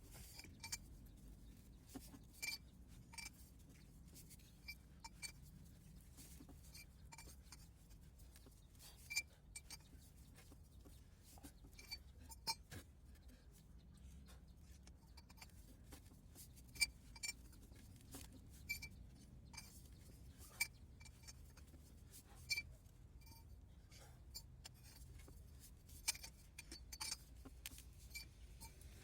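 Irregular light metallic clinks and taps, about one or two a second: steel hand tools knocking against metal parts.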